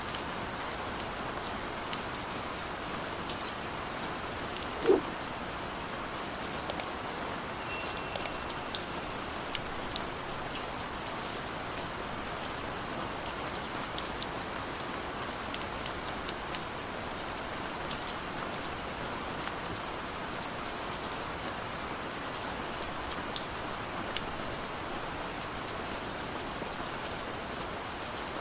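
Steady gentle rain falling, with scattered individual drops ticking close by. About five seconds in comes one louder, low-pitched plop, and about eight seconds in a short ringing tick.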